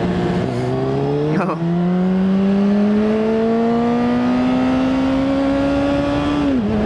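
Sport bike's inline-four engine accelerating: the revs climb, break briefly about a second and a half in, then rise steadily for about five seconds before falling away sharply near the end.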